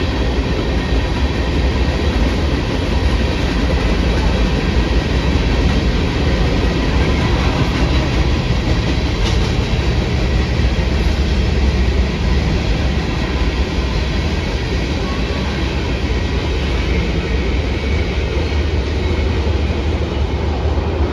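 Freight train cars rolling past on steel rails, a loud steady rumble of wheels on track.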